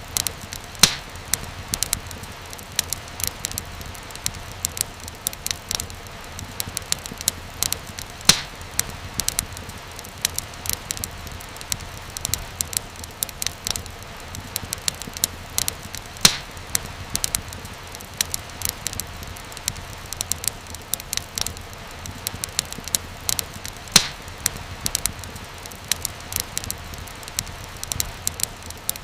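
Wood fire crackling: a steady hiss with many small quick pops and a few louder, sharper pops about eight seconds apart.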